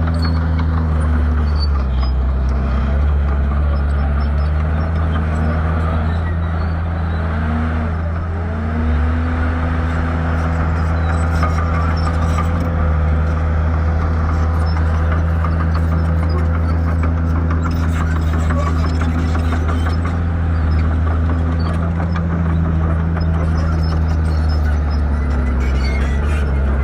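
Shantui bulldozer's diesel engine running steadily, its revs dipping and climbing back a few times in the first nine seconds, then holding steady.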